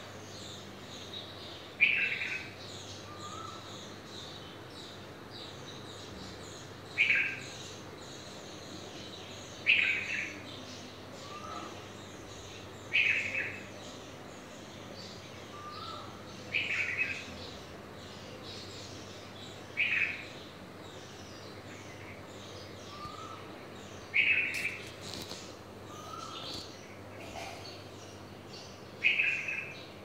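A small bird chirping: a short, sharp call repeated every three to five seconds, about eight times, with softer, lower notes in between. A faint steady low hum runs beneath.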